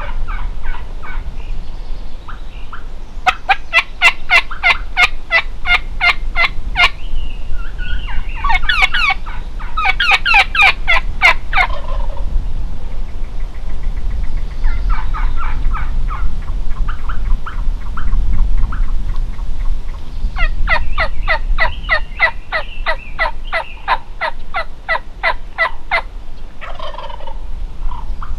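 Wild turkey gobblers gobbling several times, with long, evenly paced runs of yelps between the gobbles.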